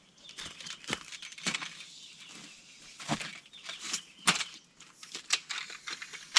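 Irregular rustling and handling noise, broken by many sharp clicks and knocks at uneven intervals.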